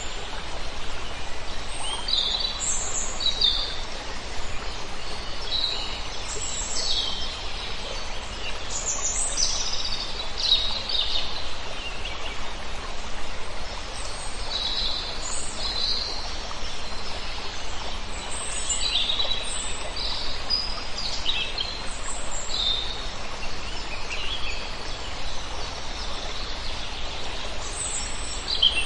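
Many birds calling over one another, a stream of short high chirps and squeaks, over a steady background hiss of open-air noise.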